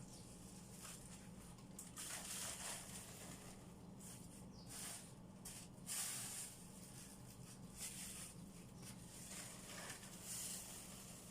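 Faint, scattered rustling and brushing noises from hands at work cleaning, every second or two, over a steady low hum.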